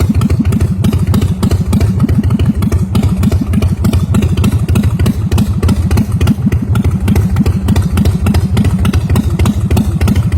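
Big Dog Ridgeback chopper's 117 cubic inch S&S V-twin running loudly at idle, freshly started, with a steady rapid beat of exhaust pulses.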